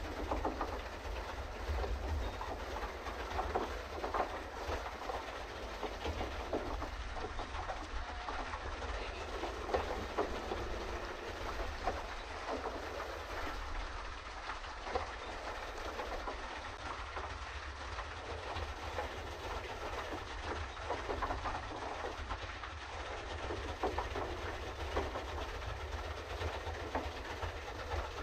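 Pedal boat under way: the paddle wheel churning water and the pedal drive clattering in an uneven stream of clicks, over a steady low rumble.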